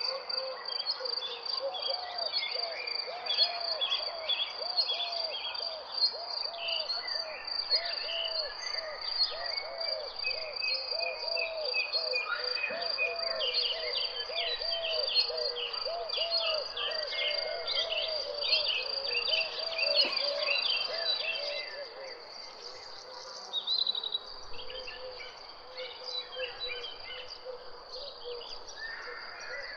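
Several birds chirping and trilling over a steady, high-pitched insect drone. A lower call repeats quickly until about two-thirds of the way through, then stops and the sound gets quieter.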